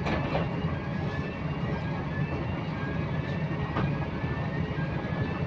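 Volvo B9TL double-decker bus engine running under way, a steady low drone with a faint whine that rises in pitch again and again. A couple of sharp clicks come right at the start and about four seconds in.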